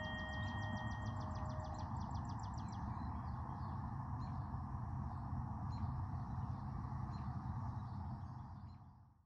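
Birds chirping outdoors over a steady background rush: first a rapid trill of high chirps, then single chirps at about two a second. The last ringing tones of bell-like music die away in the first two seconds, and the whole sound fades out near the end.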